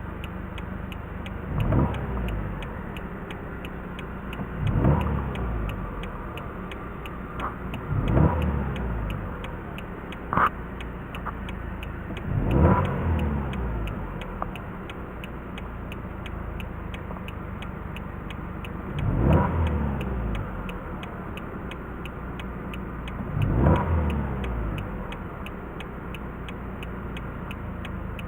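Car engine idling and being revved with the accelerator six times, each rev rising quickly and falling back to idle, with pauses of a few seconds between. A short sharp click sounds about a third of the way in, and a faint regular ticking runs underneath.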